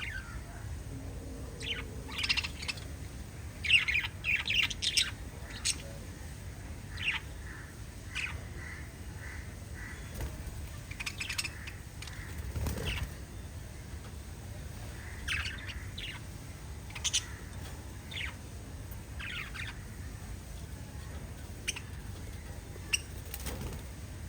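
Several pet budgerigars chirping in short, scattered calls, busiest in the first few seconds, over a steady low hum.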